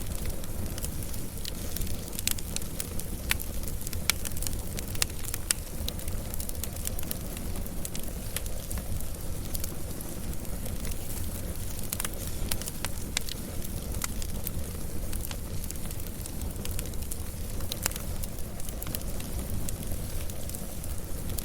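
Wood fire burning with a steady low rumble and frequent sharp crackles and pops, several a second, scattered unevenly.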